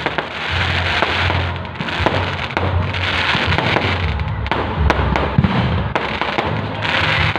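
Fireworks going off in a display: repeated sharp bangs of bursting shells over a dense crackling hiss that swells and fades every second or so.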